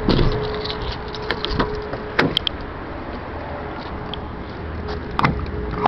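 Several sharp clicks and clunks of a pickup truck's door and latch being handled, over a steady low hum with a faint held tone.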